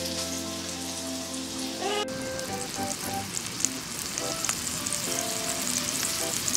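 Hamburger-steak patties frying in oil in a frying pan: a steady, crackling sizzle. Soft background music with held notes plays over the first two seconds, then the sizzle is heard mostly on its own.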